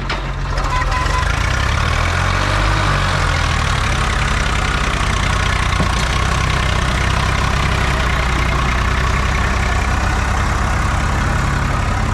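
Diesel engine of a tractor or backhoe loader running. Its note shifts a little in the first few seconds, then holds steady.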